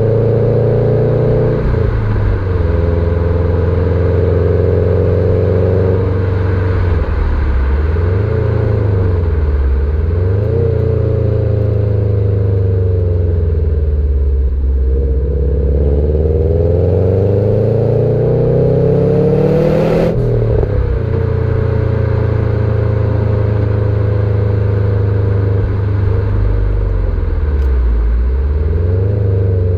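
Subaru Impreza STI hatchback's turbocharged flat-four engine, through its standard exhaust, being driven: the revs climb and drop repeatedly through gear changes, with one long climb to a peak about twenty seconds in, marked by a short burst of noise, before falling away.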